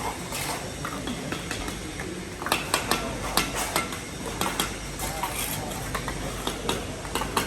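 Steel trowels scraping wet mortar and tapping on bricks, with a run of sharp, irregular clinks from about a third of the way in.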